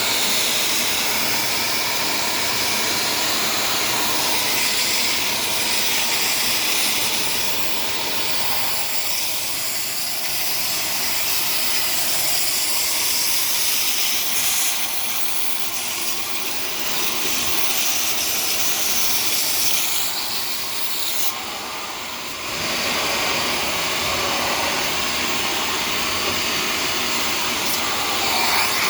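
Shark Stratos vacuum cleaner running with its crevice tool, sucking crumbs off a surface: a steady airy hiss. The sound dips briefly about three-quarters of the way through, then comes back.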